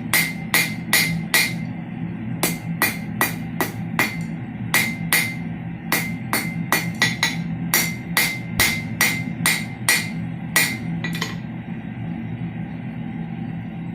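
Hammer blows on steel over an anvil, each with a short metallic ring, in runs of about three strikes a second with brief pauses, stopping about eleven seconds in. Background music plays underneath.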